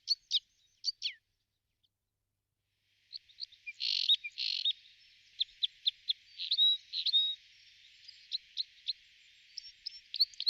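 Small birds chirping: a few quick falling chirps, a gap of silence, then from about three seconds in a busier run of short chirps and calls over a faint hiss, with two louder, harsher notes near the start of that run.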